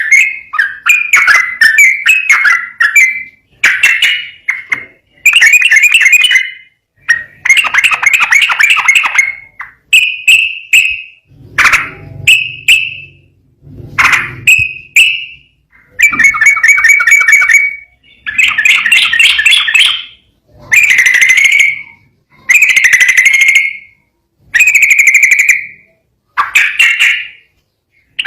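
Sooty-headed bulbul (trucukan) singing in full, active song: a string of short, loud whistled phrases, each a second or two long with brief pauses between. Some phrases are broken into fast rattling trills.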